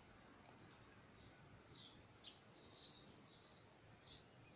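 Faint songbird chirping: short, high, mostly falling notes repeated about twice a second over quiet outdoor background noise.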